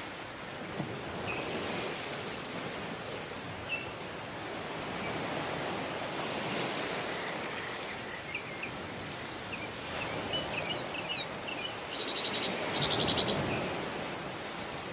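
Surf washing onto a tropical beach in slow swells, louder near the end. Small birds chirp in short scattered calls, thickest in the second half, and a rapid high trill sounds briefly near the end.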